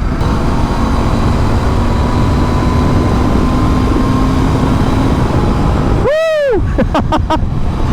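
Riding noise from a Royal Enfield Continental GT on its stock exhaust: steady wind rush on the microphone over the engine's faint hum. About six seconds in, a brief pitched sound rises and falls once, and is followed by a few short voice-like sounds near the end.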